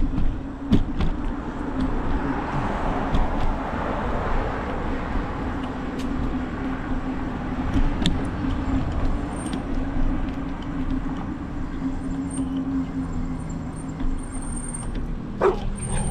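Riding noise from a bicycle rolling fast downhill on pavement: steady rushing of wind and tyres, with a low hum and scattered sharp clicks.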